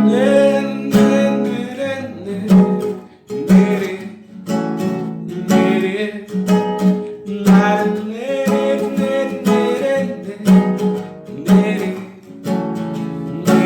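Music: an acoustic guitar strummed as a song intro, with a strong stroke about once a second.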